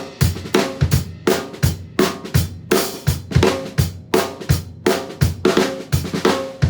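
Drum kit played in a steady, evenly spaced pattern: bass drum, snare drum and cymbal strokes, demonstrating eighth-note triplet fill vocabulary.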